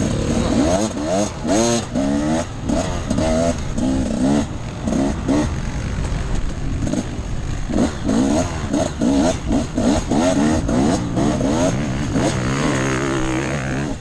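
Off-road enduro motorcycle engine revving up and down over and over as the throttle is worked, rising and falling in pitch every fraction of a second over a steady rumble.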